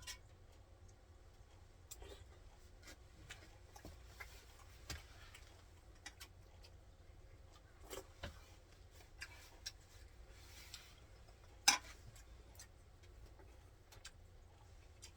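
Scattered light clicks and knocks of dishes and utensils, irregular rather than rhythmic, with one sharper knock about twelve seconds in, over a faint low hum.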